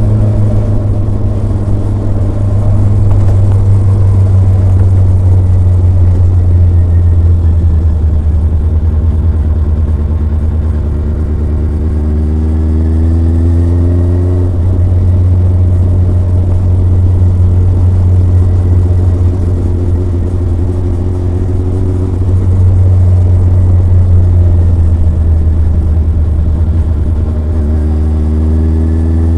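Kawasaki ZRX motorcycle's four-cylinder engine and exhaust under way, a steady low note. Its pitch climbs as the bike accelerates, drops with a gear change about halfway through, and climbs again near the end.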